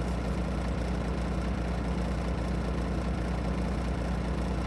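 Semi-truck's diesel engine idling, a steady low hum.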